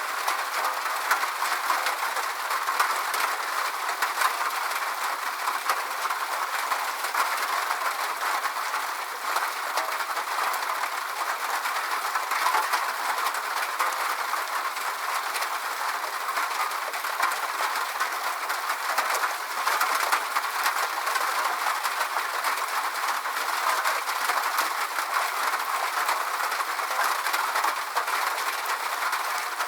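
Steady rainfall: an even hiss of many drops with fine, dense pattering and no low rumble.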